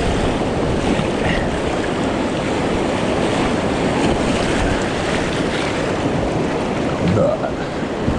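Rushing whitewater of a creek rapid: a steady, even wash of water noise.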